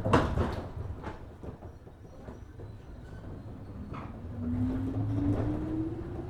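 103 series electric train pulling away from a station: a sharp clunk as it starts moving, a few lighter knocks, then the traction motor whine rising steadily in pitch from about four seconds in as the train gathers speed.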